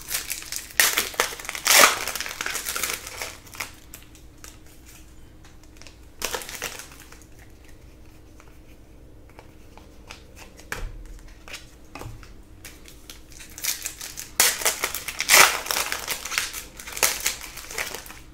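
Trading-card pack wrappers crinkling as Panini Prizm basketball packs are torn open and handled, in several bursts with quieter handling between.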